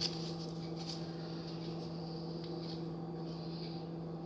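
A steady electrical hum, low and even, with a few faint light ticks and rustles over it.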